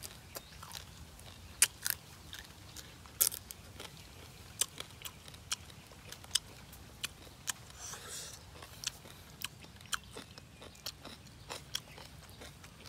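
Close-up chewing and crunching on shrimp, a sharp crunchy click every half second to a second.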